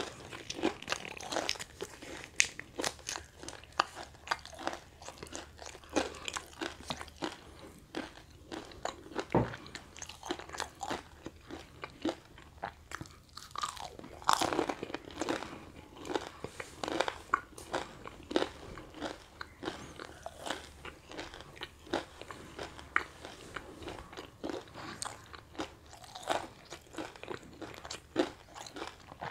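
Close-up biting and chewing of crispy deep-fried bakwan vegetable fritters: irregular sharp crunches of the fried batter between the teeth, mixed with wetter chewing.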